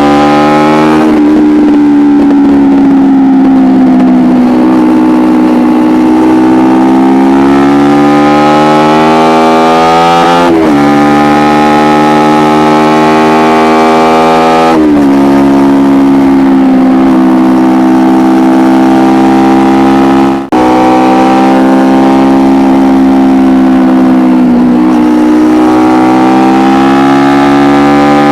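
2012 Kawasaki Ninja 250R's parallel-twin engine through an Akrapovic exhaust, running at high revs on the move with a steady tone whose pitch slowly rises and falls. The revs dip sharply and recover a few times, at about 1, 10 and 15 seconds in, and the sound briefly drops out about 20 seconds in.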